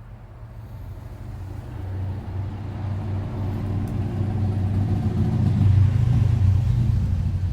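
A vehicle's engine rumbling, growing steadily louder as it comes closer.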